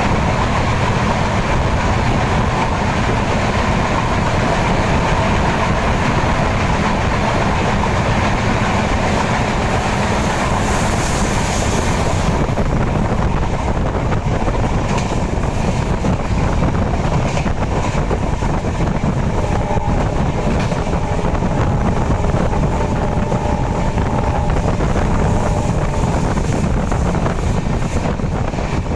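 A train running along the track, a steady loud noise with wheel clicks over the rail joints in the second half.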